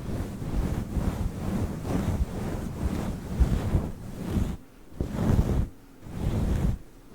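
Fluffy microphone windscreen being rubbed and scratched right against the mic, giving a low, rumbling rustle in repeated swells with short breaks in the second half.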